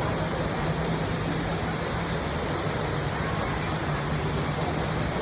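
Steady rush of water from a tall indoor waterfall pouring down.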